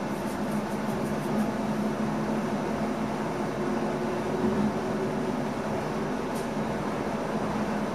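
Steady hum and rumble inside the driver's cab of an NS ICM electric multiple unit, with a few faint light ticks in the first second and a half and one more later.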